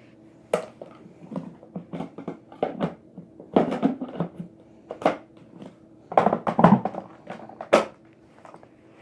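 Irregular knocks, clatter and crunching, coming in uneven clusters over a faint steady hum.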